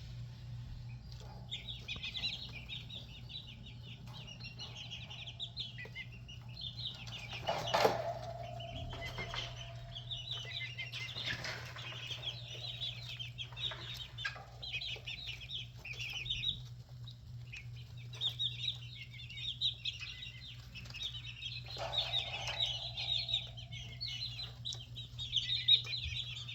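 Red junglefowl chicks, about six weeks old, peeping continuously in fast, high, overlapping notes, over a steady low hum. A louder, lower call cuts in about eight seconds in and again near twenty-two seconds.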